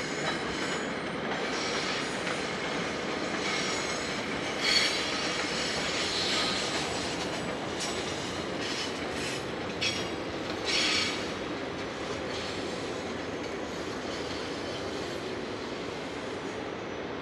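A train rolling past on the rails: a steady running noise of wheels on track, broken by several brief high-pitched wheel squeals, the loudest about five seconds in and more around ten seconds in.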